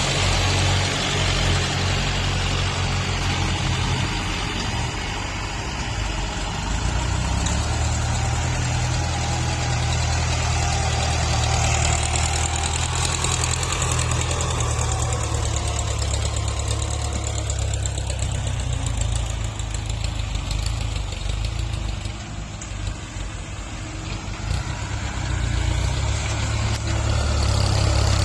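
Tractor engines running steadily with a low drone while grading soil; the sound drops somewhat about two-thirds of the way through, then grows louder again near the end.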